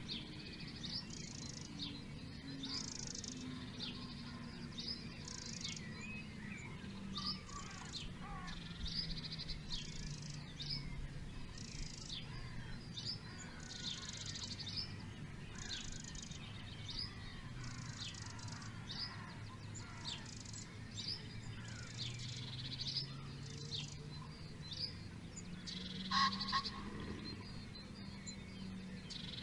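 Wild birds chirping and calling in many short, high notes, one louder call about 26 seconds in, over a low hum that slowly rises and falls in pitch.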